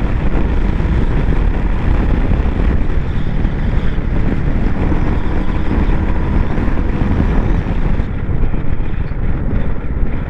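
Wind rushing over the microphone on a moving motorcycle, mixed with the steady running of a Royal Enfield Bullet 350's single-cylinder engine. The higher part of the hiss drops away about eight seconds in.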